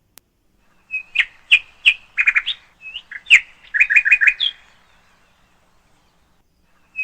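Bird chirping: a string of short, sharp chirps and quick rattling trills starting about a second in and stopping a little after the middle.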